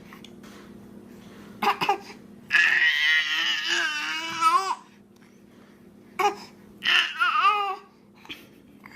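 High, wavering wailing cries: a short one, then a long one of about two seconds, then two shorter ones, over a steady low hum.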